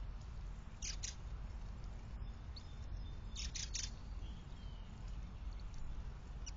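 Short, sharp bird calls in quick groups of three or four, once about a second in and again past the middle, with a few faint thin high notes between, over a steady low hum.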